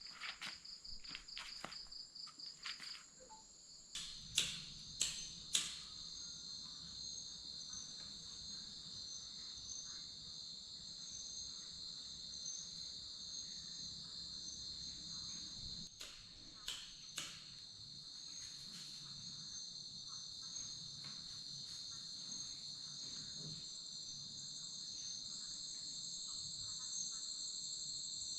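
Crickets and other night insects chirping steadily in high, shrill bands, with a fast pulsing trill in the first few seconds. A few sharp clicks stand out, three in quick succession about four to six seconds in and two more past the middle.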